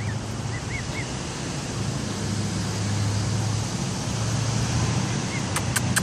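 Steady rushing outdoor noise of wind and traffic with a low hum, with three faint, short gosling peeps about a second in and a few sharp clicks near the end.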